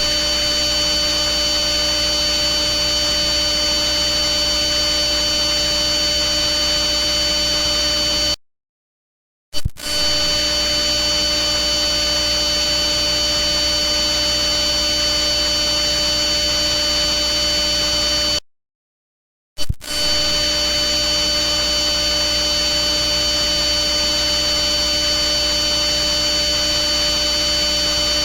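A steady, loud electrical-sounding hum and buzz, several fixed tones with a high whine on top over a hissy haze, played as an annoyance sound. It cuts out twice for about a second and starts again each time with a short click, as a looped recording would.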